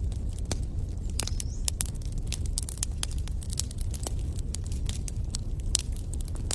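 Wood bonfire crackling: frequent, irregular sharp pops and snaps over a steady low rumble.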